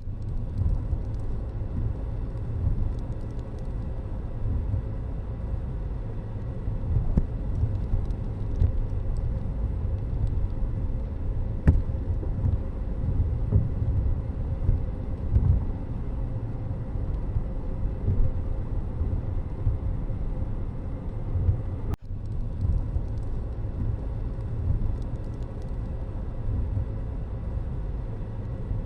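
Steady low rumble of a moving road vehicle with traffic, with a brief break about three-quarters of the way through.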